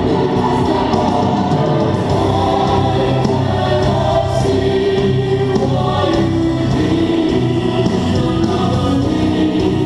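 Choral music: a choir singing sustained, held notes over a continuous musical backing.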